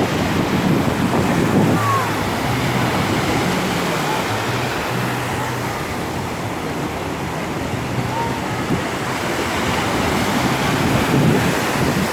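Rough sea breaking on the shore in a steady wash of surf, with wind buffeting the microphone.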